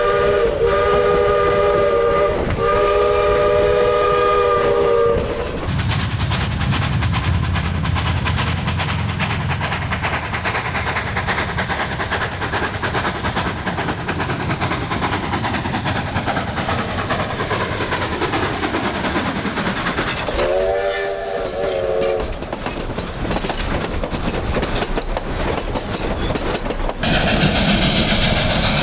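Narrow-gauge steam locomotive's whistle sounding in long blasts for the first five seconds, then the train running with a steady rumble and clatter, and one more short whistle blast about 21 seconds in. The running sound turns suddenly brighter and hissier near the end.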